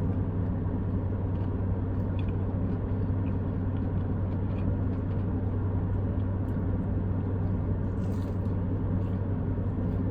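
Steady low rumble and hum of a running car, heard from inside the cabin, with faint chewing sounds.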